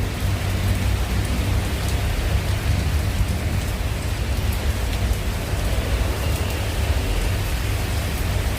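Steady rain falling, with a heavy low rumble underneath.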